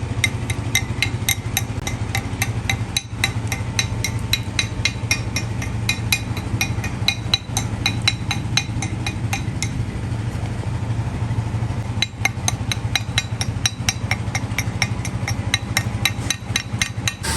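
Quick, evenly spaced hammer strikes on steel, about three to four a second, each ringing, over a steady low machine hum. The strikes pause for a couple of seconds in the middle, then resume.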